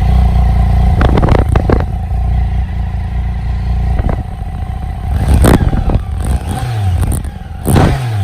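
Triumph Tiger 800's three-cylinder engine running through its stock exhaust, with a steady whistling whine over the low exhaust note. There are several sudden loud surges, and the revs fall away twice in the second half.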